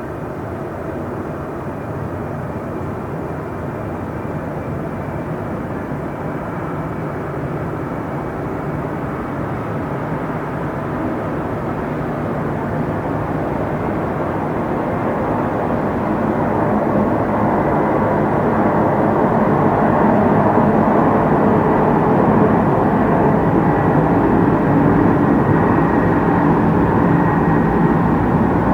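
Steady rumbling noise of a train at a station, growing louder from about halfway in and then holding, with a faint steady high whine above it.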